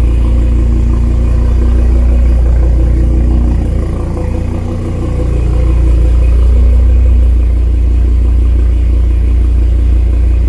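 A heavily built 1000 hp 2018 Audi RS3's turbocharged 2.5-litre five-cylinder engine idling loudly after a cold start. The idle eases off briefly about four seconds in, then settles back.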